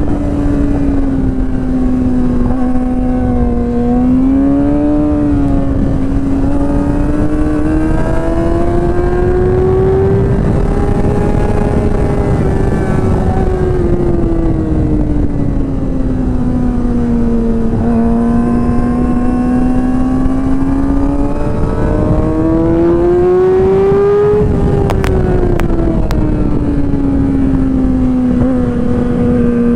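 Yamaha R6 inline-four sportbike engine running at high revs on track, its pitch climbing and falling in long sweeps as the bike accelerates and slows. The revs drop sharply about 24 seconds in, under steady wind noise.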